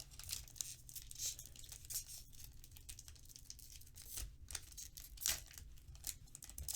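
Faint rustling, crinkling and small clicks of trading cards and their plastic sleeves and wrappers being handled on a table.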